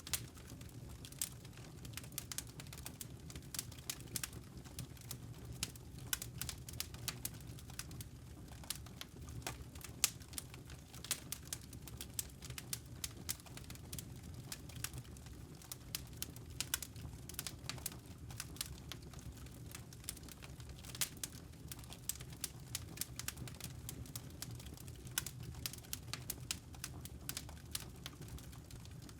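Campfire of burning wood logs crackling, with irregular sharp pops over a steady low rumble of flames.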